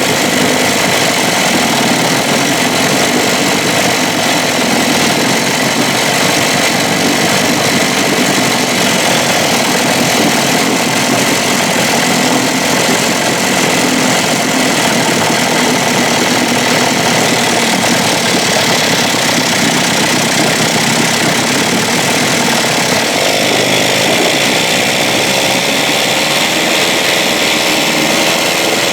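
1956 Evinrude 7.5 hp twin-cylinder two-stroke outboard motor running steadily.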